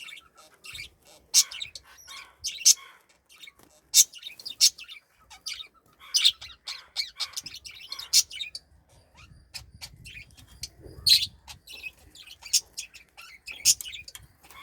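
Pet lutino pearl cockatiel chirping: a run of short, sharp, high-pitched chirps at irregular intervals, a few much louder than the rest.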